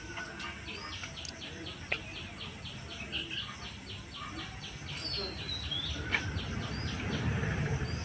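Birds calling in the background: a rapid, even run of short chirps, about five a second, with a falling whistle about five seconds in. A low rumble builds over the last few seconds.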